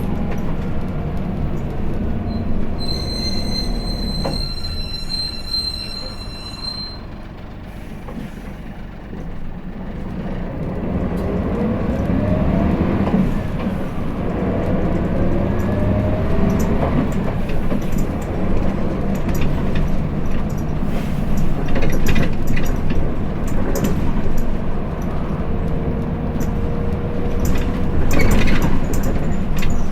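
Interior running sound of a Hino Blue Ribbon City (KL-HU2PMEA) city bus's diesel engine. A steady high electronic tone sounds for about four seconds near the start. The engine then quietens briefly before rising in pitch in several sweeps as the bus accelerates, with rattles from the body.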